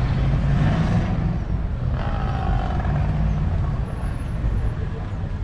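A motor vehicle's engine running close by as a steady low rumble.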